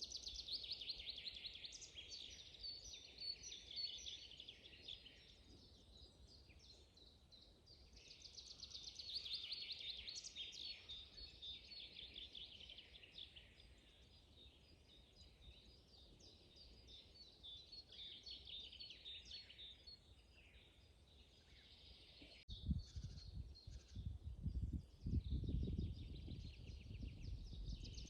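Songbirds singing in a spring forest: rapid trilled phrases that come and go every few seconds. A low rumble joins in for the last several seconds and is the loudest sound there.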